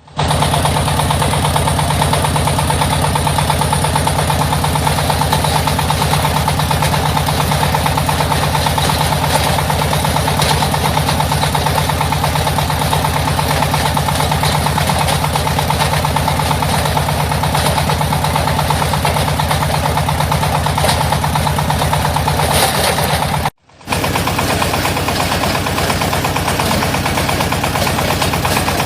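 Diesel engine of a portable hydraulic water well drilling rig running steadily with a fast, even beat. It breaks off for a split second near the end and starts again at once.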